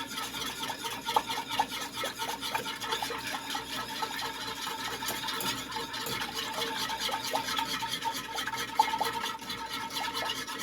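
A whisk stirring sugar and water in a pot on the stove, scraping in quick, rhythmic strokes as it dissolves the sugar for a pickling brine.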